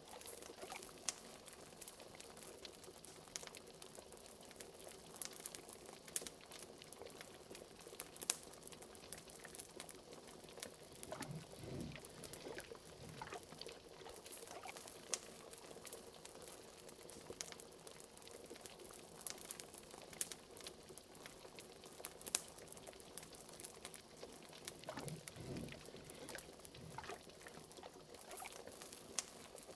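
Liquid bubbling and popping steadily in a pot, like a simmering cauldron, with a fire crackling in many small sharp clicks. Deeper gurgling swells come twice, about twelve and twenty-five seconds in.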